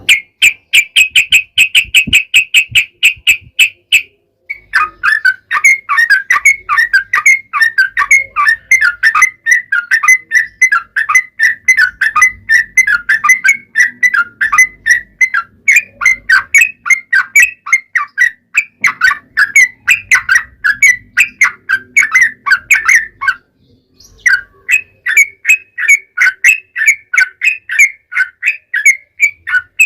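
Yellow-vented bulbul singing in long, rapid strings of short notes. A quicker, higher run opens it, and the song breaks off for about a second about three quarters through before carrying on.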